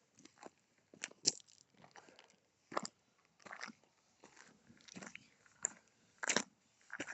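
Footsteps crunching on a steep gravel path, slow and uneven, about one step a second.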